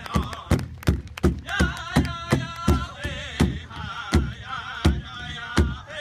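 Powwow drum song: a drum struck in a steady beat of about three strokes a second, with high, wavering singing over it, strongest from about one and a half seconds in.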